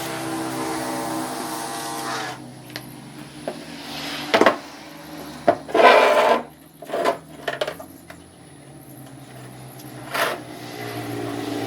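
A handful of short, rough scraping and rasping strokes, like hand filing or sanding, spread over several seconds. A steady pitched hum runs at the start, drops away about two seconds in, and comes back near the end.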